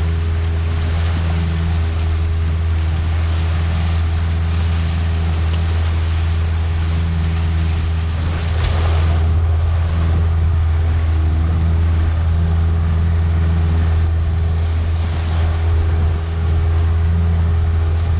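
Boat engine running steadily under way, with water rushing past the hull and wind on the microphone. A louder wash of spray about halfway through and a smaller one near the end.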